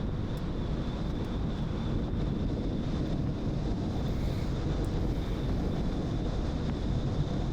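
A car driving on a smooth paved road: a steady rumble of tyre and wind noise on the microphone, with a thin, steady high tone running through it.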